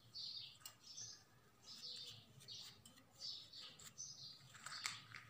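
Faint bird chirping, short calls recurring about once a second, with a few soft clicks near the end.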